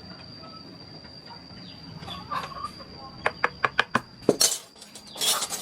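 Hand wood-carving tools at work: a quick run of sharp taps, about seven in under a second, beginning about three seconds in, then two short hissing scrapes.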